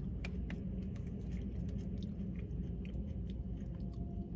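A person chewing a mouthful of seasoned potato fry, with small irregular clicks from the mouth, over a steady low rumble.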